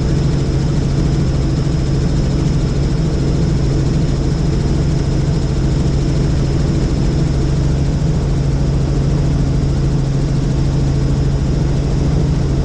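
Helicopter in flight: steady, loud rotor and engine noise with a low, even drone and a thin high whine above it, unchanging throughout.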